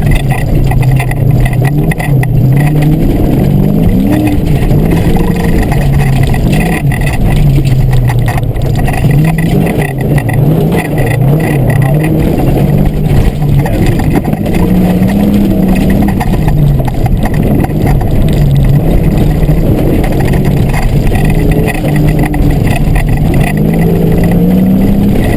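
Fox Body Mustang's engine being driven hard, its pitch repeatedly climbing and dropping every second or two as it revs and shifts, over a steady loud rush of driving noise.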